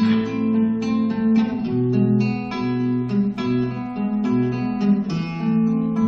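Acoustic guitar playing an instrumental break in a song, a quick run of picked and strummed notes over a bass line.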